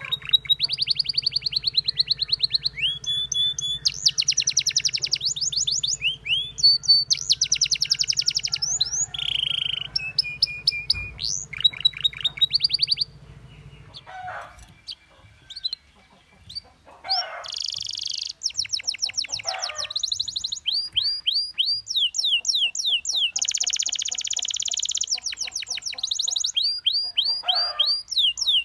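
Domestic canary singing: fast rolling trills of quickly repeated high notes, changing from one run of notes to the next, with a quieter pause of a few seconds about halfway before the song resumes.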